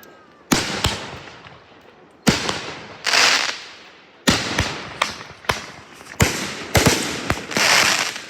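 Fireworks going off: a rapid series of about ten sharp bangs, several trailed by a swelling crackling hiss that dies away.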